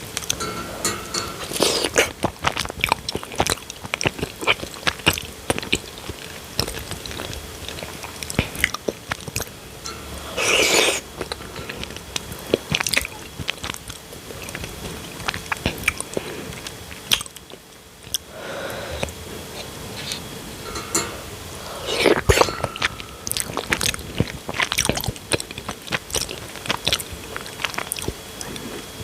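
Close-miked mouth sounds of a person eating palm nut soup with banku and cucumber: steady chewing and biting with many small wet clicks and crisp crunches. Two longer, louder noisy sounds stand out, about 11 seconds in and again about 22 seconds in.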